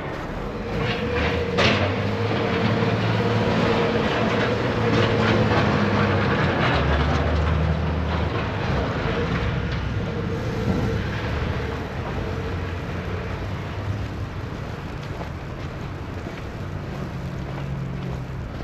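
Heavy vehicle passing close by: a low rumble that swells over the first few seconds and fades away after about ten, with one sharp knock about a second and a half in.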